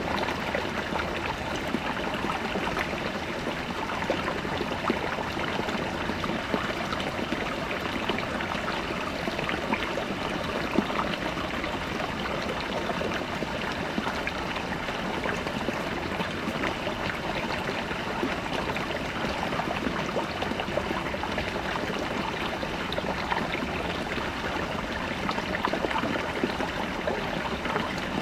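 Small brook babbling over rocks: a steady wash of flowing water with fine trickling and splashing detail.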